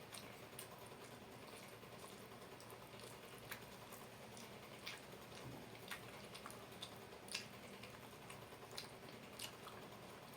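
Faint eating sounds from someone eating rice with fried chicken: scattered single clicks and smacks of chewing, about one every second or so, over a low hiss.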